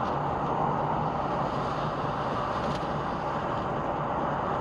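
Steady road noise of a car driving, heard from inside the cabin: a constant rush of tyre and engine noise with a faint low hum, holding at an even level.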